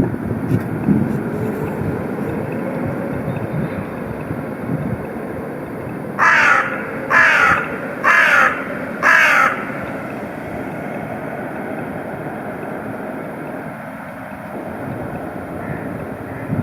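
A crow cawing four times, about a second apart, a little past the middle, over steady low street noise and wind.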